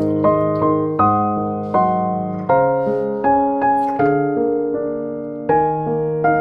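Background music: gentle piano playing slow chords, with notes struck about every half second and left to ring.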